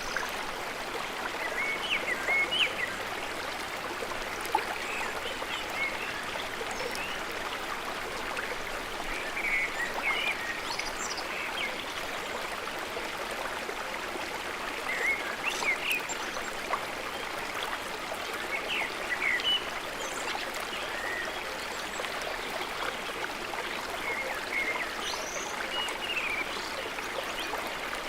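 Steady rush of a flowing stream, with short bird chirps scattered throughout.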